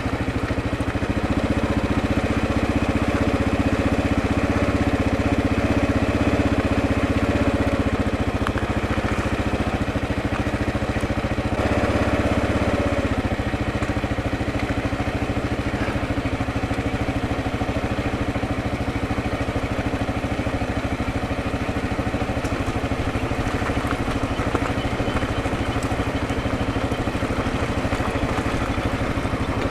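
Kawasaki KLR650's single-cylinder engine running as the motorcycle rides along. The engine note shifts and is a little louder in the first dozen seconds, then holds steady.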